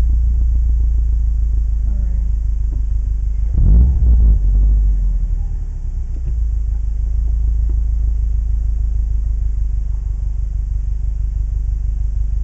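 Subaru WRX STi's flat-four boxer engine idling steadily, a low rumble heard from inside the car while it sits stopped. A short, louder sound rises over it about three and a half seconds in.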